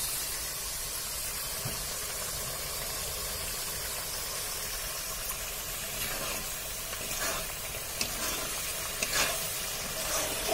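Onions and spices frying in hot oil in a metal kadai, a steady sizzle; the masala is being browned before the chicken goes in. From about seven seconds in, a spatula stirs it, scraping and knocking against the pan a few times.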